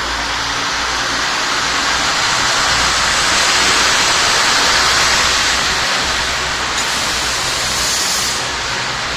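Rail vehicle running along the track, taken to be ADIF's DR 501 track-inspection car: a steady rushing of wheels on rail with a low hum underneath. It swells to its loudest about four seconds in and then eases off, with a brief sharper hiss near the end.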